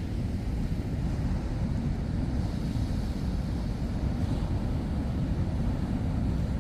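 Steady low rumble of wind buffeting the microphone, mixed with the roar of heavy surf.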